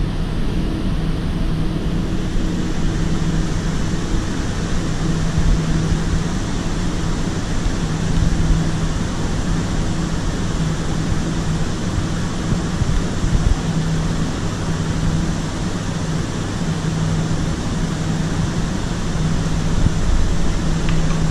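Diesel passenger train standing at the platform with its engines idling: a steady mechanical hum under a low drone that swells and fades.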